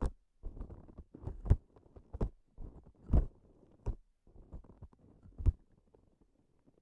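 Sticky transparent ASMR objects pressed and released close to the microphone: short bursts of soft crackling, each with a sharp sticky pop, about one a second, dying away near the end.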